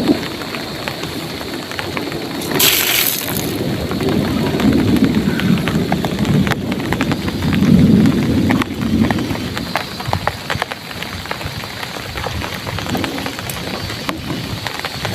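Heavy rain pattering steadily, with rolling thunder rumbling low and swelling twice. A short sharp crackle comes about three seconds in.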